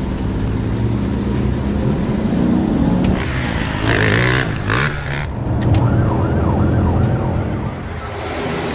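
Vehicle engine sound effect running and revving, with a short wavering siren about six seconds in.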